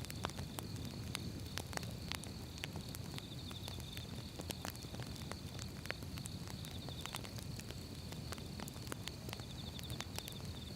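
Firewood burning: irregular sharp crackles and pops over a low, steady rumble of the flames.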